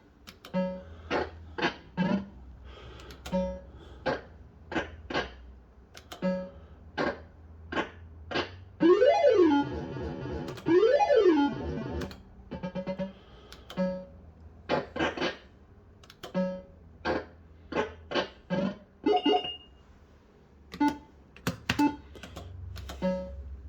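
Bell-Fruit Wild Cats System 85 fruit machine playing its electronic sound effects: a run of short beeping tones, with two loud sweeping tones that rise and fall about nine and eleven seconds in.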